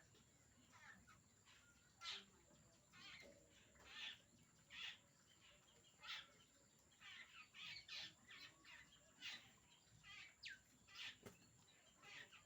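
Birds calling: a faint, steady run of short, high chirps and calls, some sliding down in pitch, coming several times a second.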